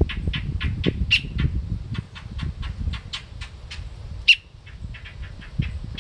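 Fledgling songbird's loud begging chirps, repeated fast at about four a second, with two louder, sharper calls, one about a second in and one a little after four seconds.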